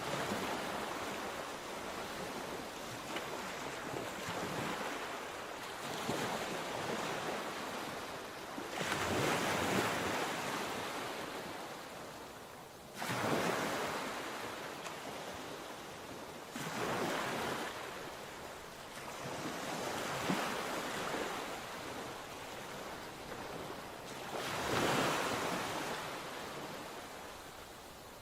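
Sea surf: waves breaking and washing in, one surge after another every few seconds, each swelling and fading away, one hitting suddenly about halfway through.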